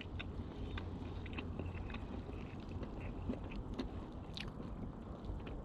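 A person chewing and biting food: scattered faint crunchy clicks over a low background rumble.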